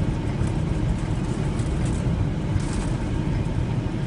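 Steady rumble of road and engine noise inside a moving vehicle's cabin, with a few faint ticks on top.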